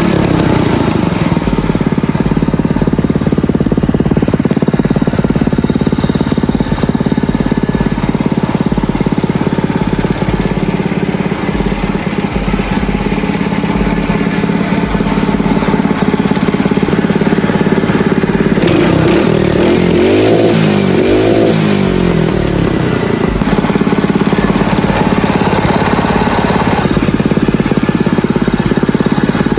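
New go-kart engine on its first run, ticking over steadily and revved up and back down twice in quick succession about twenty seconds in; it runs strongly, sounding more powerful.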